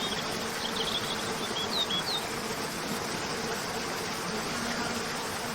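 Waterfall cascading with a steady rush of water, and small birds giving a few short, high chirps during the first two seconds. A faint steady buzzing hum runs underneath.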